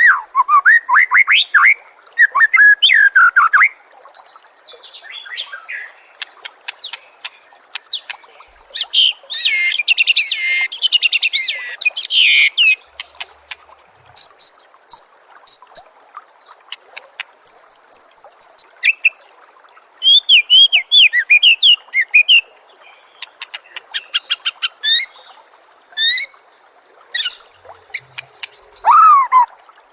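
White-rumped shama (murai batu) singing a varied song in bursts: rapid trills, sweeping whistled notes and chattering phrases, with one long steady high whistle about halfway through.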